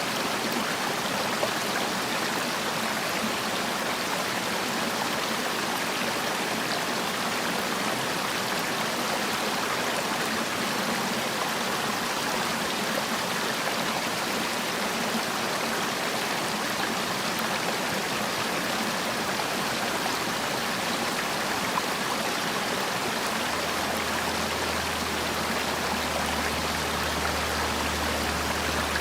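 Valley stream running steadily, an even rush of water. A low, steady rumble joins underneath about 23 seconds in.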